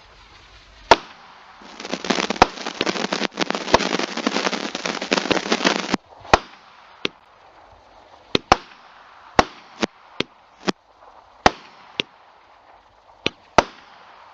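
Small consumer firework cake firing: a sharp report, then about four seconds of dense crackling that stops suddenly, followed by a string of separate sharp cracks, one or two a second.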